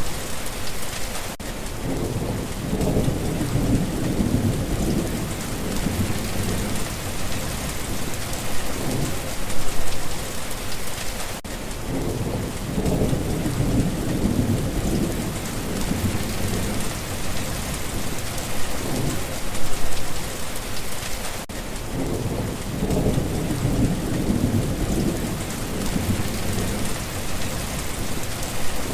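Steady rain hissing, with low rolling thunder rumbling in and fading three times, about every ten seconds.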